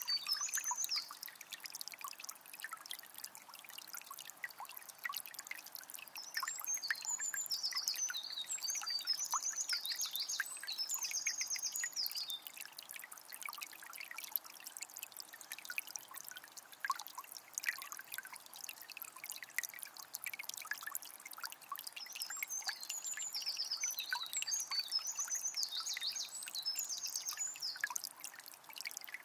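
A calm forest river trickling and splashing steadily, with a songbird singing high, rapid phrases in two long bouts, a few seconds in and again near the end.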